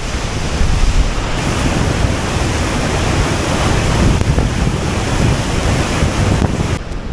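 Floodwater from Ladybower Reservoir's bellmouth overflow (the Plughole) rushing out of the outlet at the base of the dam, a loud steady rush of water. It turns quieter and duller near the end.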